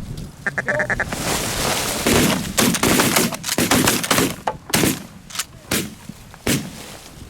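Canada geese honking as they come in to the decoys, then a rapid volley of about ten shotgun shots from several hunters firing together.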